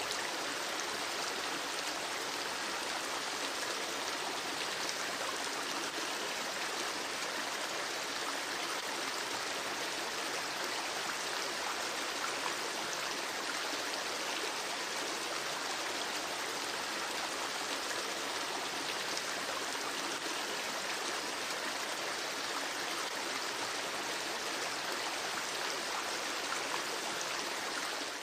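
Steady rushing and trickling of a flowing stream, even and unbroken.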